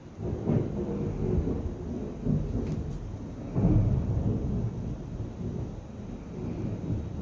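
Thunder rumbling: a low rumble that sets in suddenly, with a loud swell just after the start and a stronger one about three and a half seconds in, then rolling on more quietly.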